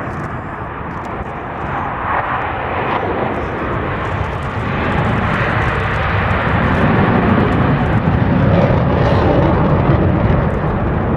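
Blue Angels F/A-18 Hornet diamond formation taking off in full afterburner: a loud, continuous rushing jet noise that builds about halfway through as the jets pass.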